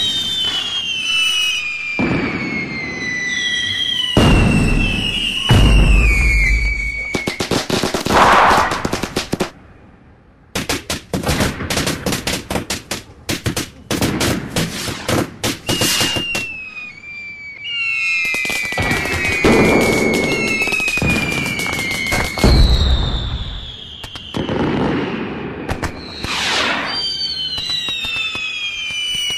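Fireworks going off: whistles falling in pitch, deep booms of bursting shells, and a long stretch of rapid crackling about a third of the way in.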